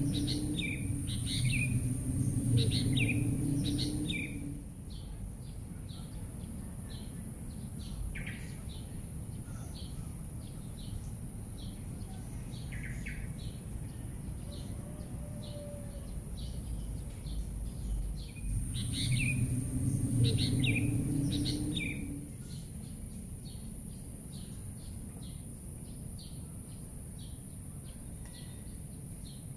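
Small birds chirping in short, repeated calls throughout, over a steady high hiss. Twice, for a few seconds each (at the start and again about 19 seconds in), a low hum swells up under a louder run of chirps.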